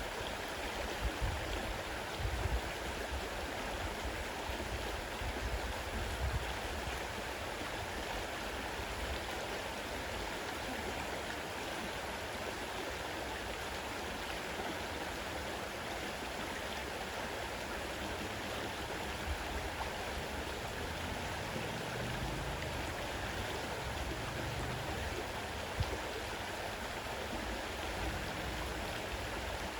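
Fast-running river rushing steadily, an even wash of water noise. Low rumbles come and go in the first few seconds and again about two-thirds of the way through.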